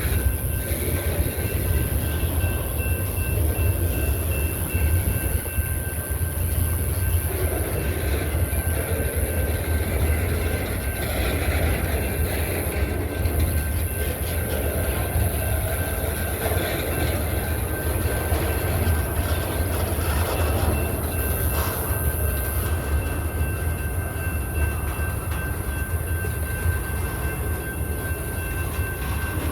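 BNSF train rolling slowly past, a steady low rumble from its cars on the rails.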